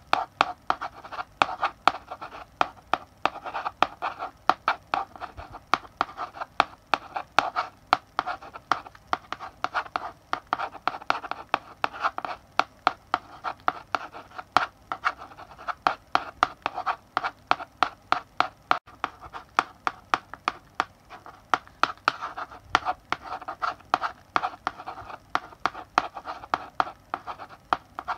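Chalk writing on a blackboard: quick sharp taps and short scratchy strokes as letters are written, several a second without pause.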